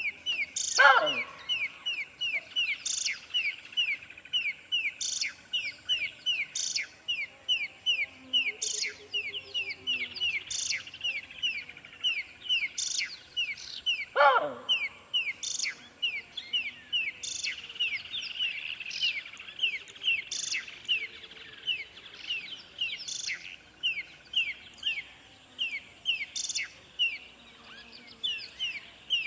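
Birdsong: an unbroken series of quick high chirps, about three a second, with a sharp high tick roughly every second. Twice, about a second in and again near the middle, a loud whistle drops steeply in pitch.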